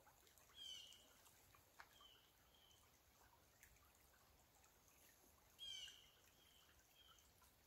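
Near-silent woods with a small bird calling faintly twice, about half a second in and again near the end of the first six seconds. Each call is a quick run of high notes falling into a held note, followed by a few shorter notes.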